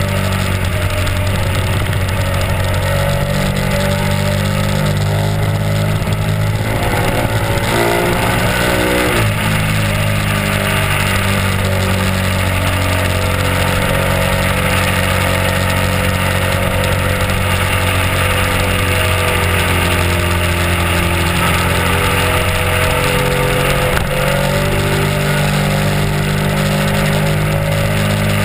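Honda RC51's 90-degree V-twin engine running under way at cruising speed, with wind rushing over the bike-mounted microphone. About eight seconds in the engine note shifts in pitch briefly, then settles back to a steady drone.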